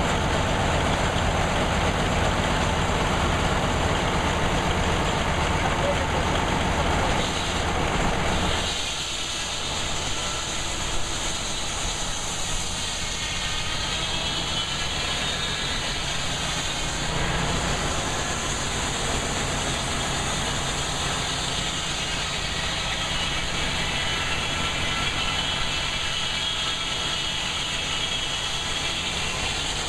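Engine running a sawmill, with a steady low chugging beat. About nine seconds in the beat drops away, and a steady high whine with overtones carries on.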